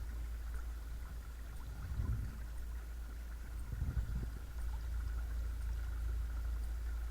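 Watersnake T24 12-volt electric trolling motor running steadily with a thin, constant whine, over a low rumble of water and wind that swells about every two seconds.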